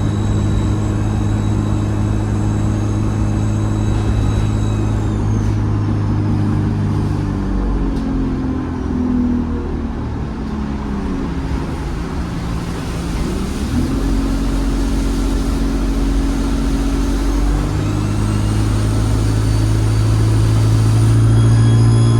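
ADL Enviro 200 bus engine running, with a high turbo whistle. The whistle falls away about five seconds in as the engine eases off, the engine note shifts several times in the middle, and the whistle rises again over the last few seconds as the engine pulls under power.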